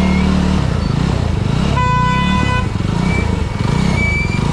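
Motorcycle engine running at low speed, its pitch rising and falling with the throttle. A vehicle horn sounds once, for under a second, about two seconds in.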